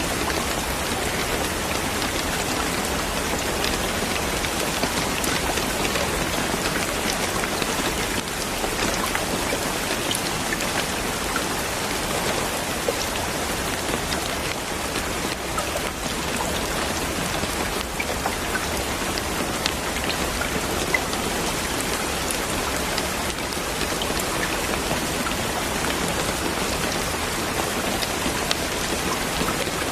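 Steady rain falling on a surface, a dense even hiss flecked with small drop ticks.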